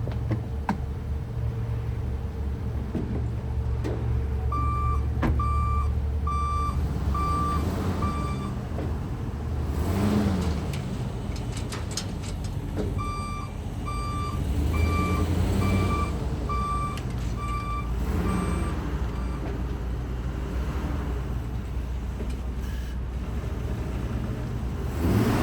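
Chevrolet 3500 HD flatbed truck's Vortec gas V8 running as the truck is driven forward and back. A backup alarm sounds two runs of steady, evenly spaced beeps, about a second and a half apart, the first about five seconds in and the second about thirteen seconds in.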